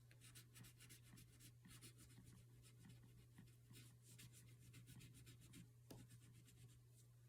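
Faint crayon strokes scratching back and forth on paper as a drawing is coloured in, over a steady low hum.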